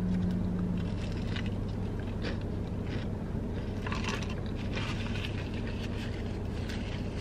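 Biting into and chewing a fried chicken sandwich close to the microphone: irregular crunching and wet mouth sounds over a steady low hum.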